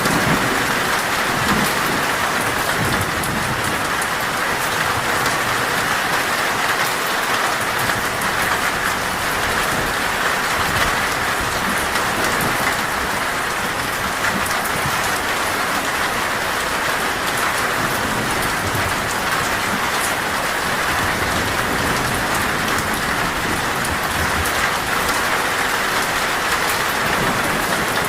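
Torrential rain falling steadily on a metal roof.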